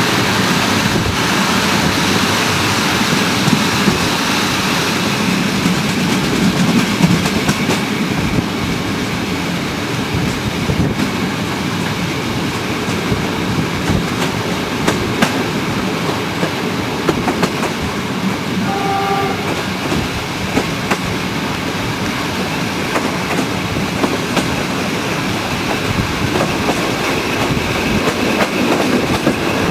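Passenger train running at speed, heard from an open carriage window: a steady rush of wheels on rail with scattered clicks from rail joints. A short horn blast sounds about two-thirds of the way in.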